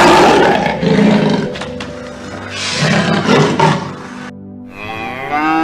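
Two rough animal roars, each about a second long, the first at the start and the second about three seconds in; near the end a cow's long moo begins, rising in pitch. Steady background music runs underneath.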